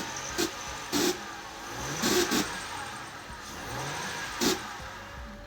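Car engine blipped up in short revs, with a loose exhaust heat shield giving short, loud metallic rattles several times.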